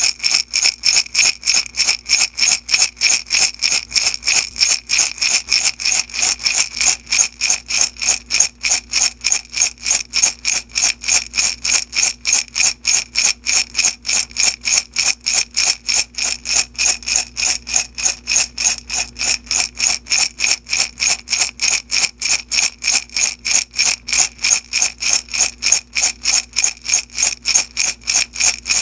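Small beads shaken back and forth in a glass jar, a bright rattling swish in a steady, even rhythm of about three shakes a second.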